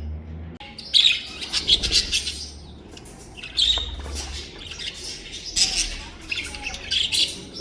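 Captive birds chirping and squawking in short bursts, several calls in quick clusters with brief pauses between.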